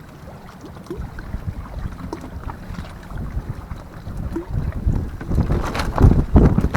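Strong wind buffeting the microphone, a low rumble that gusts harder in the second half.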